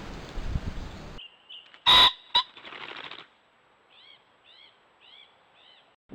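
Animal calls: one loud short call about two seconds in, then four faint short chirps evenly spaced about half a second apart.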